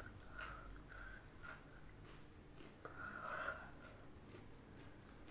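Faint chewing of raw bitter gourd, with scattered crisp crunches and a louder crunch a little after three seconds in.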